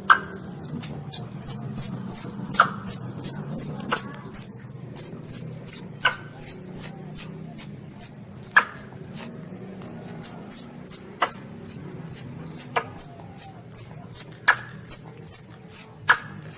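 Asian palm civet kitten calling: a rapid series of short, thin, high squeaks, each falling in pitch, about two to three a second, with a louder, sharper squeak every couple of seconds.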